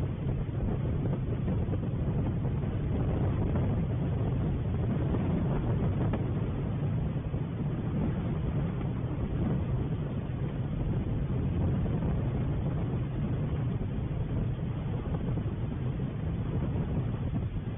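Wind buffeting an outdoor camera's microphone: a steady low rumble with small swells and no distinct tones.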